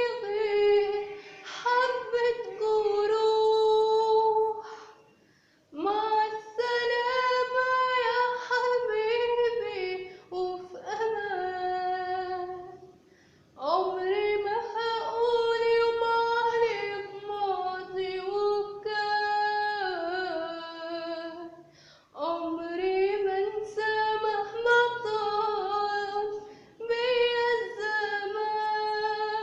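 A woman's voice singing an Arabic song unaccompanied, in long phrases of held, wavering notes with brief breaths between them.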